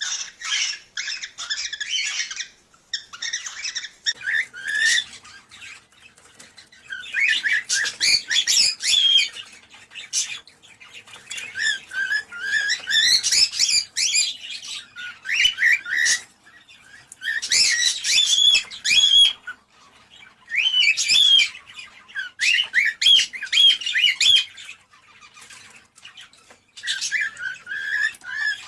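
Cockatiels chirping and warbling in repeated bursts of a few seconds, with quick rising and falling whistled notes. This is the chatter played to encourage cockatiels to breed.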